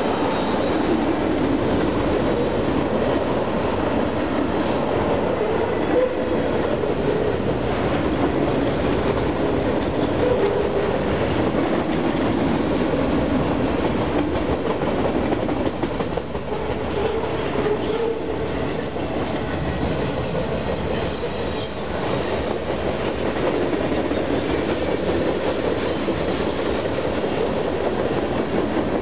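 Freight train cars rolling past close by: a steady rumble of steel wheels on rail with a rhythmic clickety-clack over the rail joints. The locomotives' engine drone fades out just after the start.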